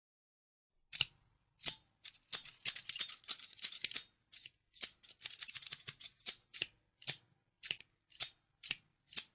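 Scissors snipping, starting about a second in: a couple of single sharp snips, then two quick runs of rapid snips, then single snips about every half second near the end.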